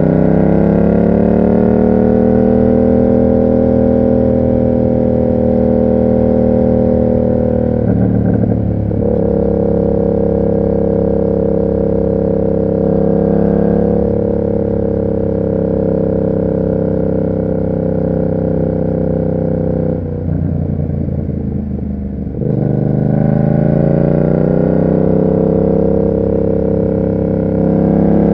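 Yamaha MT-07's parallel-twin engine through an SC Project exhaust, under way. It rises in pitch at the start, breaks briefly for a gear change about eight seconds in, and then holds a steady cruise. Past the twenty-second mark it drops off throttle for a couple of seconds before pulling up again.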